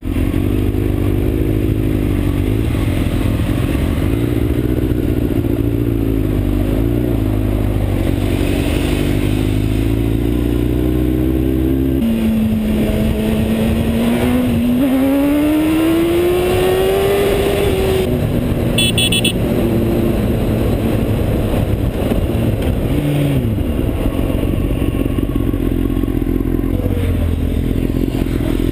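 Motorcycle engine running while riding, with a steady rush of wind and road noise. About twelve seconds in, the engine note drops abruptly, then climbs steadily for about six seconds.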